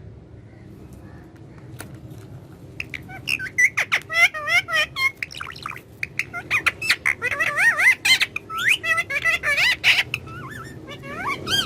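Pet talking parrot chattering and squawking in rapid, warbling chirps that glide up and down in pitch, starting about three seconds in and running on without a break.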